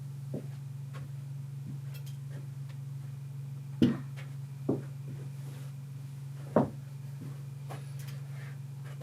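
Steady low electrical-sounding hum with a few brief knocks or handling sounds, about four seconds in, again just under a second later, and near seven seconds.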